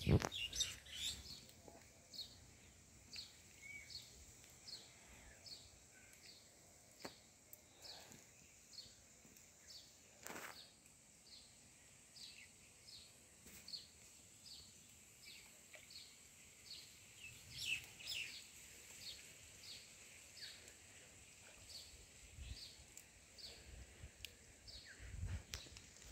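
A bird calling in a long, steady series of short high chirps, about two a second, with a few soft clicks and knocks in between.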